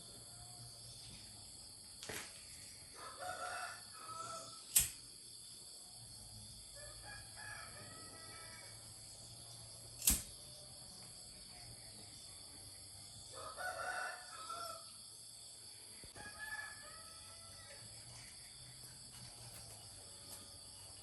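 Rooster crowing several times, each crow about a second or more long, over a steady high hiss of crickets. Two sharp clicks, about five and ten seconds in, are the loudest sounds.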